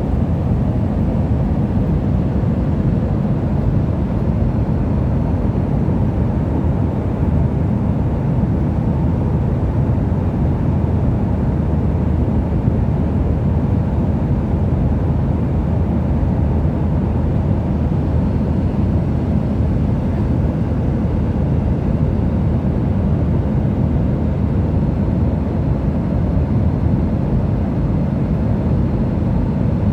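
Steady low rumble of a passenger airplane's cabin in flight: engine and airflow noise heard from inside.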